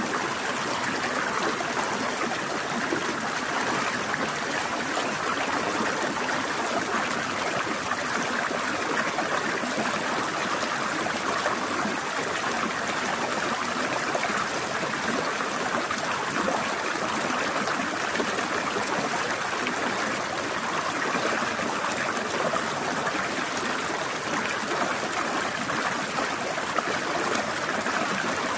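Shallow forest stream flowing and trickling over rocks: a steady, unbroken rush of water, strongest in the middle range, with no change in level.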